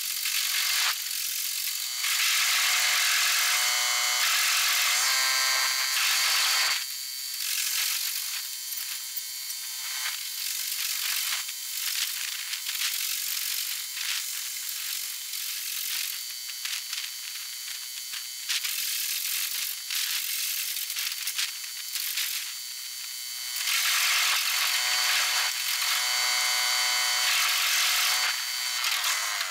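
Rock crusher running, with a continuous metallic rattling and clatter of rock passing through it. It grows louder for a few seconds early on and again near the end.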